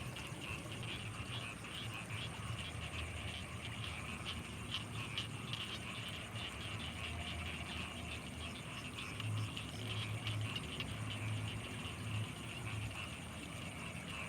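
Night chorus of frogs and insects beside rice fields: a dense, high, trilling chorus carries on steadily, with low pulsing croaks underneath that grow stronger in the second half.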